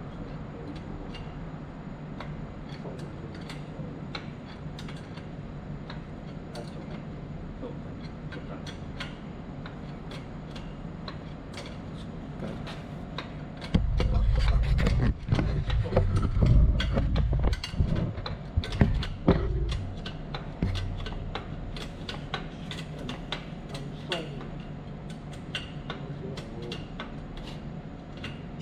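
Hand work on machinery: scattered clicks and light metallic taps over a steady low hum. From about halfway through, several seconds of heavy, irregular low rumbling and knocking.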